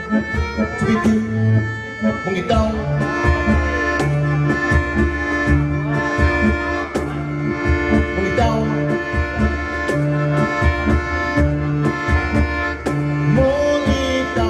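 Live folk dance band playing a tune led by accordion, over a bass line that repeats on a steady beat.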